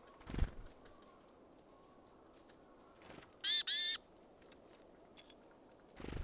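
Wild bird calls: two loud, harsh calls in quick succession about three and a half seconds in, with faint high chirps around them. A soft low thump comes just after the start and another near the end.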